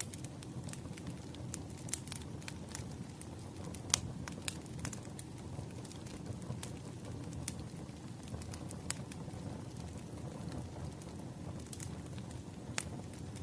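Wood fire burning, a steady low rumble with irregular sharp crackles and pops.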